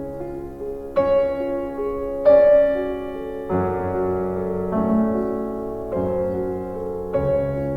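Background piano music: slow, soft chords struck about once a second or so, each ringing on.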